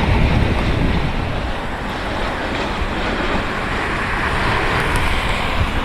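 Wind buffeting the microphone, with a steady rushing roar underneath.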